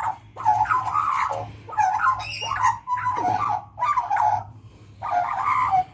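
Australian magpie song: about five short warbling phrases with brief gaps between them, one of them ending in a falling note about halfway through.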